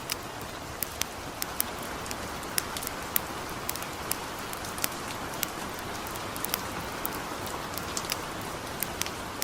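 Steady hiss of gentle rain together with a campfire crackling: sharp, irregular pops about twice a second over the rain.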